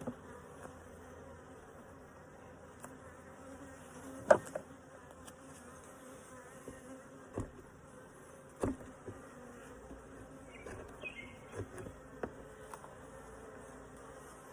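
Honeybees humming around an open hive, a steady low drone, with a few sharp knocks and clicks, the loudest about four seconds in.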